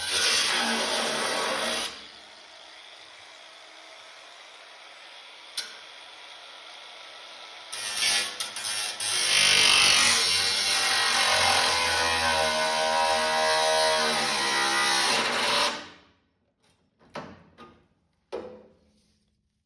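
A power tool running under load on sheet metal, loud for about two seconds, then a quieter steady hiss, then running loud again with a wavering pitch for about eight seconds before it stops suddenly. A few short knocks follow near the end.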